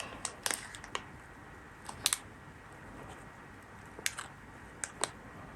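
Scattered light clicks and taps of small metal parts being handled: an Enya .15CX model glow engine and its muffler being tried together and set down. The clicks are sparse and irregular, with pairs about two seconds in and about four seconds in.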